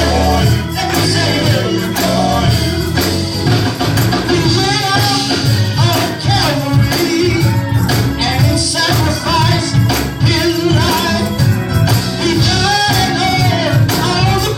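Live gospel band playing with singing voices: bass, drums and keyboard with a steady beat.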